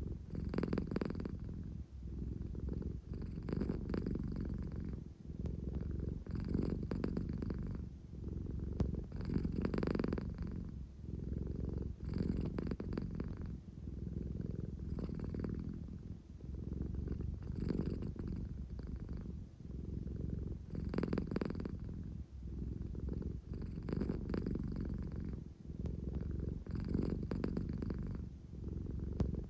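American Shorthair cat purring steadily and closely, the low rumble swelling and fading about every one and a half to two seconds.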